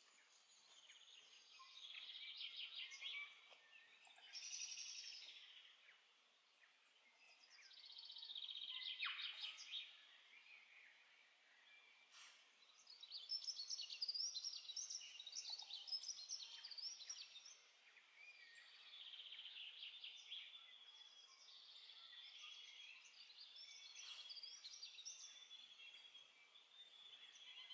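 New Zealand forest birds singing, faint: varied chirping and warbling phrases a few seconds long with short pauses between them, becoming steadier in the second half.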